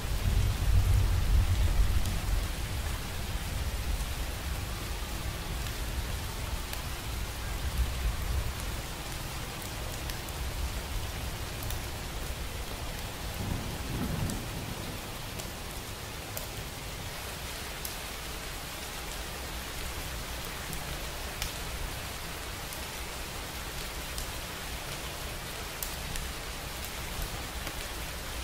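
Steady rain falling, with a low rumble of thunder in the first few seconds that fades away. An even hiss of rain remains, with scattered sharp drop ticks.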